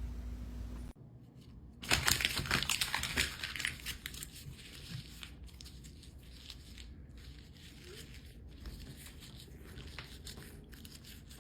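Crinkling, rustling noise like paper or plastic being crumpled or torn, loudest for a couple of seconds about two seconds in, then faint scattered clicks and rustles.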